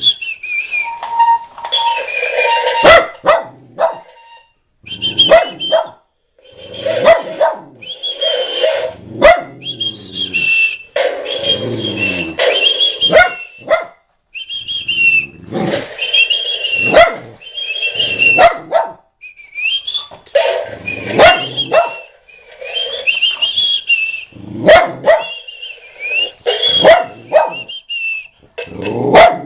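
A dog barking again and again, mixed with high whistled parrot calls, in a back-and-forth run of short bursts with brief pauses.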